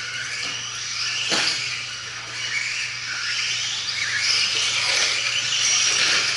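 Several radio-controlled 2WD stadium trucks racing, their motors whining high and rising and falling in pitch with throttle over the noise of tyres on the track. There is a single sharp knock about a second and a half in.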